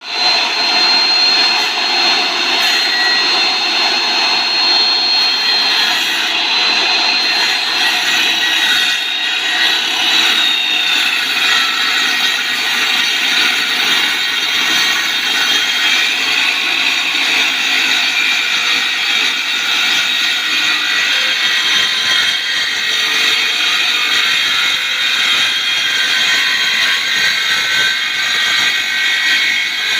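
Circular saw running and cutting through wood, a continuous loud rasp with a high blade whine over it.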